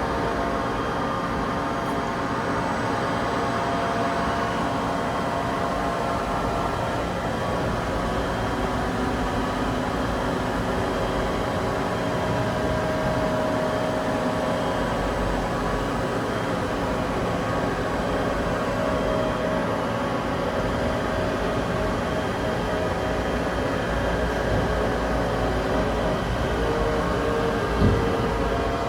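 Johnford bridge-type CNC vertical machining center running: a steady mechanical hum made of several tones, some of which shift in pitch now and then, with a single knock near the end.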